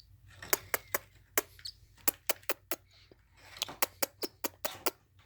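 A series of sharp, irregular clicks and taps, about two to four a second, in a quiet room.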